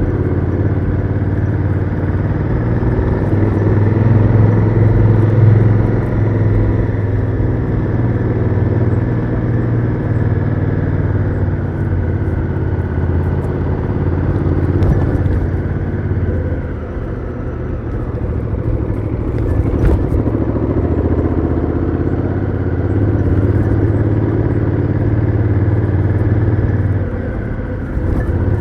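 Honda Africa Twin CRF1000L's 998 cc parallel-twin engine through its stock exhaust, running under way, with the revs easing off briefly about two thirds of the way through before picking up again.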